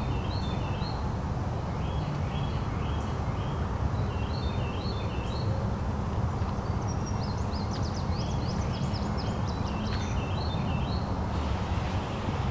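Songbirds singing short chirped phrases again and again, with a quick run of chirps about two thirds of the way through, over a steady low background rumble.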